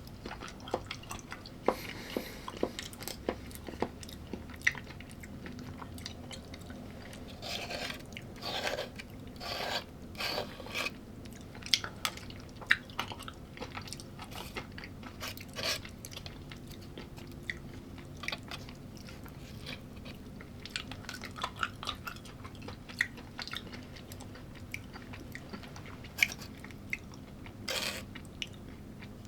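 A person chewing food up close, with crunchy bites and many short sharp clicks scattered throughout.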